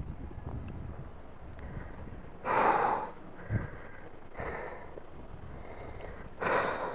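A man breathing hard through the strain of a long boat-hold core exercise: three heavy exhalations a couple of seconds apart, the first the loudest, with a brief low knock just after it.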